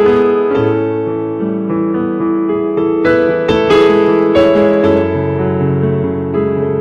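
Piano or electric piano playing sustained chords, with new notes struck every second or so.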